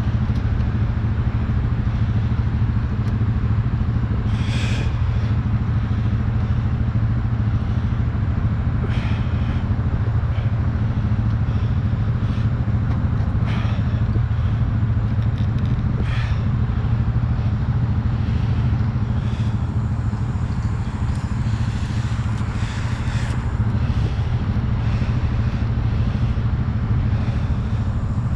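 An engine running steadily at one speed, with a few short clanks or scrapes over it.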